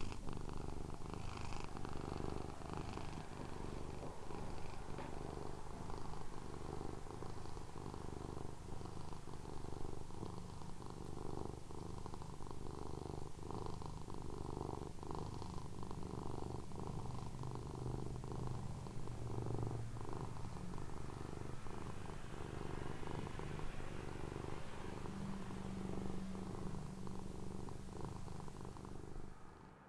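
Domestic cat purring close up, a steady low pulsing purr that stops near the end.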